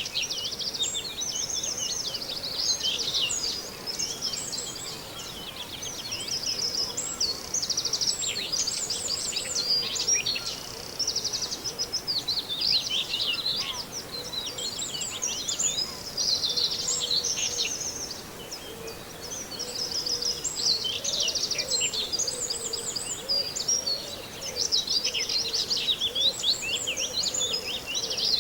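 Common whitethroat singing among other songbirds: dense, high, scratchy chattering and trilled phrases that run almost without a break, with a couple of short lulls.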